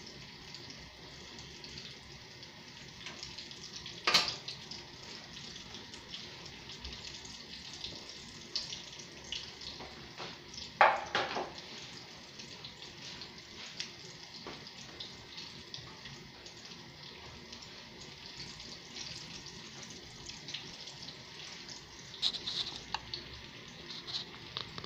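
Breaded fish escalope shallow-frying in oil in a pan: a steady sizzle with scattered small crackles. A sharp knock comes about four seconds in and a louder clatter about eleven seconds in.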